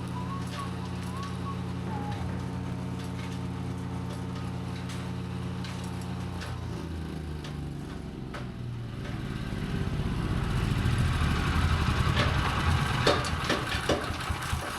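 A vehicle engine running at a steady pitch. About six seconds in it changes to a rougher rumble that grows louder from about ten seconds in, with scattered clicks and knocks. A bird whistles briefly at the start.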